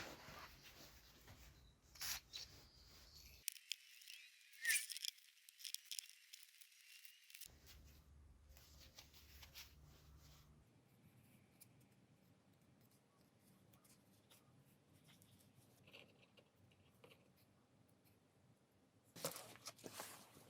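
Faint workbench handling noise: scattered light clicks, taps and rustles, with brief louder clusters about two seconds in, near five seconds and near the end.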